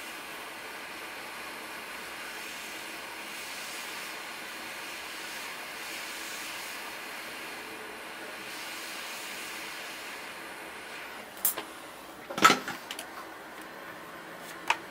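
Steady hiss of blowing air from microsoldering bench equipment, with a handful of sharp clicks and taps near the end.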